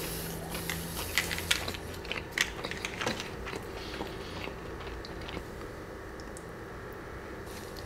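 Close-miked chewing of a mouthful of crispy fried chicken sandwich: a run of sharp crunches and mouth clicks in the first few seconds, then softer chewing.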